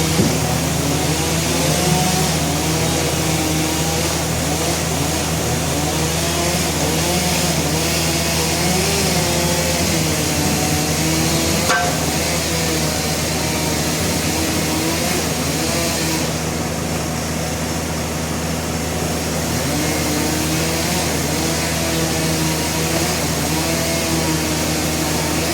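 Sawmill engine running steadily, its pitch wavering up and down now and then.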